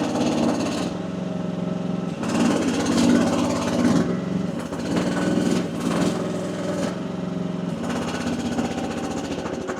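Small engine of a one-ton mini excavator running steadily. Its sound swells and eases a few times as the hydraulics load it.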